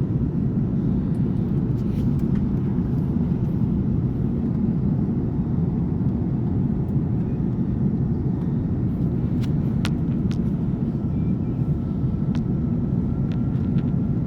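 Steady drone of an airliner in flight heard from inside the cabin: engine and airflow noise at an even level. A few faint clicks, and a faint high steady tone comes in near the end.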